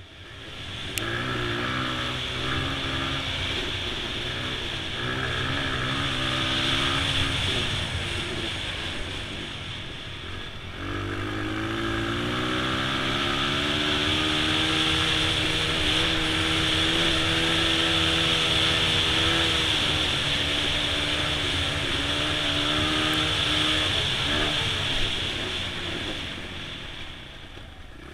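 2002 Honda XR100's small single-cylinder four-stroke engine running under load on a dirt bike, its revs rising and falling. About ten seconds in it drops off, then pulls up and holds high revs before easing off near the end.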